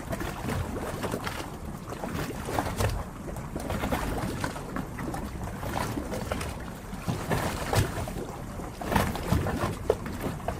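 Harbour water lapping, an uneven wash broken by many small irregular splashes and slaps.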